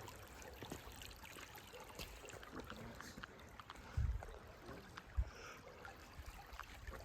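Faint trickling of a small stream, with a couple of soft low thumps about four and five seconds in.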